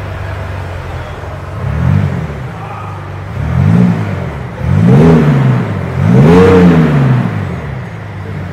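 BMW X6 engine revved four times while standing still, each blip rising and falling back toward idle, the last one the longest and highest.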